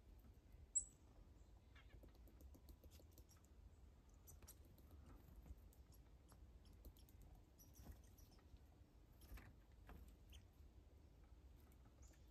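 Faint, scattered ticks and rustles of birds and squirrels feeding at a bird feeder, with one short, sharp, high chirp about a second in.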